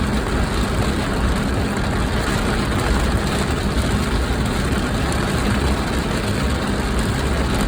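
Steady low rumble of a car heard from inside the cabin, engine and road noise running evenly.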